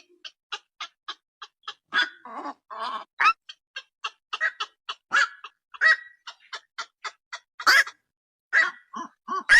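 Black-crowned night heron calling: a string of short, harsh croaks, some single and some in quick runs, at uneven intervals, with the loudest croaks about two, five, six and eight seconds in.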